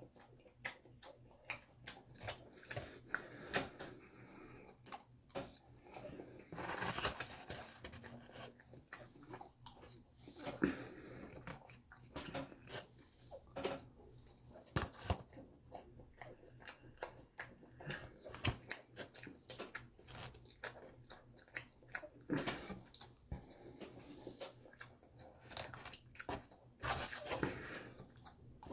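A person chewing and biting mouthfuls of loco moco and gravy fries close to the microphone, with many irregular small clicks and smacks.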